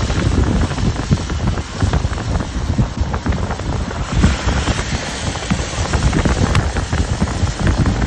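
Wind buffeting the microphone: a loud, gusty, irregular rumble and hiss.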